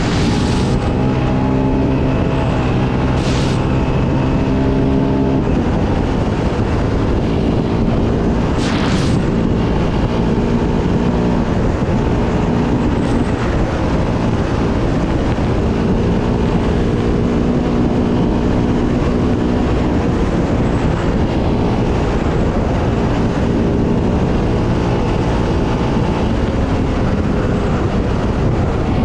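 Yamaha Raptor 700R ATV's single-cylinder four-stroke engine running under way, its note holding steady for a few seconds at a time and then shifting pitch as the throttle and gears change. A few short hissing bursts cut across it.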